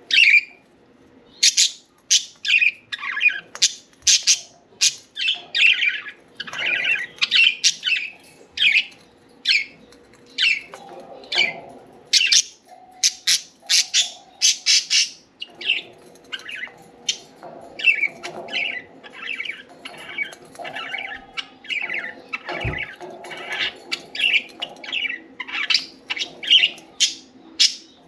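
Several budgerigars chirping and squawking in a continuous run of short, quick calls, over a faint steady hum. A single thump about two-thirds of the way through.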